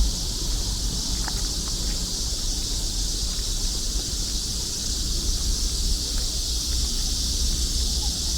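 A chorus of cicadas singing in a steady, high-pitched drone on a summer night, with a low rumble underneath.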